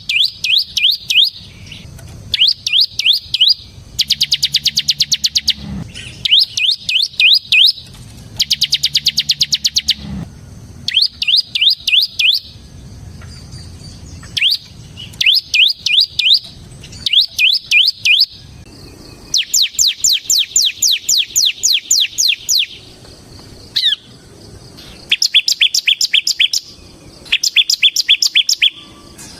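Bar-winged prinia (ciblek) singing: repeated bursts of rapid, evenly spaced high chirps, each lasting one to three seconds with short pauses between them. Some bursts run together into a faster, denser trill, the 'ngebren' style that hobbyists prize.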